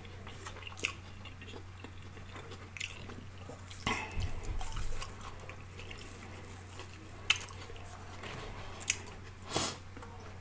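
Close-miked mouth sounds of a person biting and chewing grilled chicken, with irregular wet smacks and clicks. A faint steady low hum runs underneath.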